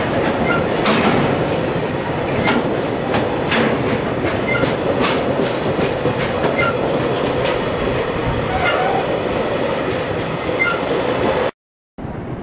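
A freight train of oil tank wagons rolling past, its wheels clicking over the rail joints at irregular intervals with a steady tone running under the clicks. The sound drops out for half a second near the end.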